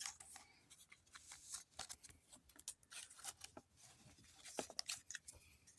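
Faint rustling and light clicks of Pokémon trading cards and pack wrappers being handled, in short irregular bursts.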